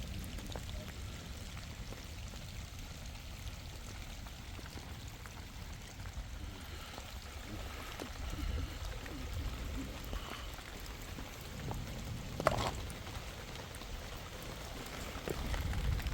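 Steady rain falling, with one sharp knock about twelve seconds in.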